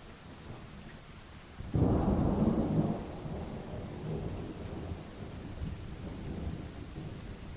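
A thunderclap breaks suddenly just under two seconds in, loudest for about a second, then rumbles on and slowly fades, over a steady hiss of rain.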